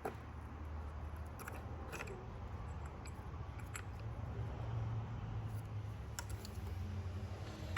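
Scattered light metallic clicks and taps of hand tools and parts being handled during engine work, with a sharper click near the end, over a steady low hum.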